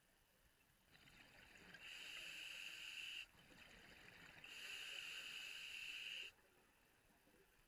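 A diver's scuba regulator hissing on two inhalations, each lasting about two seconds and cutting off sharply.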